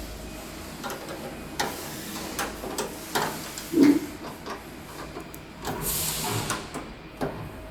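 Handling noises from fitting parts by hand: scattered clicks and knocks, one louder thump about four seconds in, and a short hiss about six seconds in.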